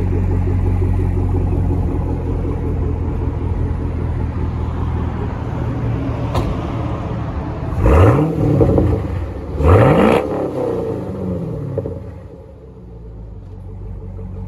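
Car engine idling through an exhaust with the mufflers cut off and the resonators left on. It is revved briefly twice, about eight and ten seconds in, then settles back to idle.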